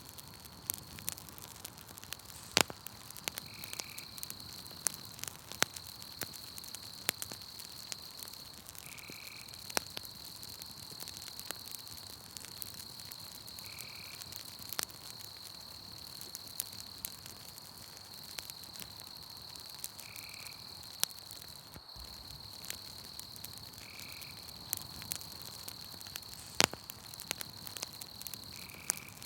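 Campfire crackling with scattered sharp pops, the two loudest about two and a half seconds in and near the end. Underneath runs a steady high insect trill, and a short high call repeats about every five seconds.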